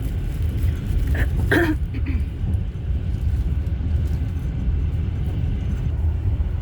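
Steady low rumble of a passenger train running at speed, heard from inside the carriage. A brief higher sound cuts in about a second and a half in.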